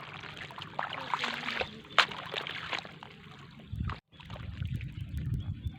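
Shallow seawater sloshing and splashing while someone wades and picks up shellfish, with scattered clicks and knocks and one sharp knock about two seconds in. After a brief dropout just past the middle, a low rumble comes in.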